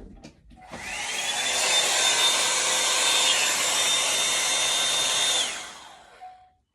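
Revlon One-Step hot-air brush dryer switched on: its motor whine rises over about a second into a steady rush of blowing air, then it is switched off about five and a half seconds in and winds down.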